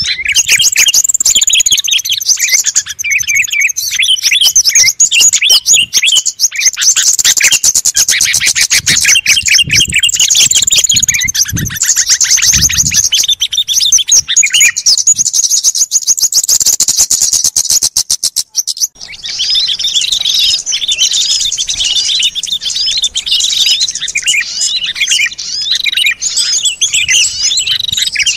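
Many small songbirds chirping and trilling over one another in a dense, continuous chorus: a bird-lure recording. It cuts out for a moment about two-thirds of the way through, then resumes.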